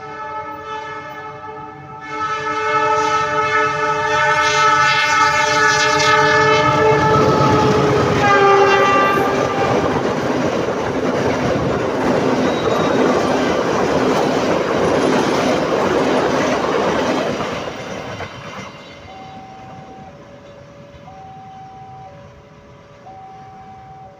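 A train sounds a long horn blast as it approaches, and the horn's pitch drops as it passes about eight seconds in. The rumble and clatter of the passing train follow for about ten seconds, then fade. A level-crossing alarm's two alternating tones ring before the horn and again once the train has gone.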